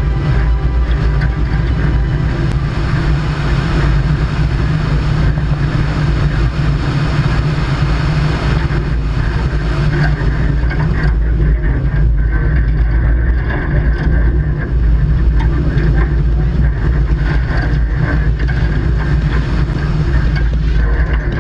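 Subaru WRX STI rally car's turbocharged flat-four engine running steadily as the car drives along a gravel road, heard up close from the hood.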